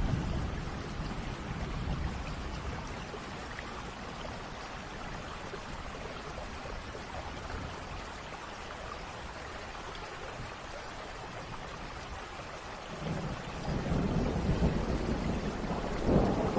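Steady rain falling, with a roll of thunder fading out at the start and another low rumble of thunder building about three-quarters of the way through.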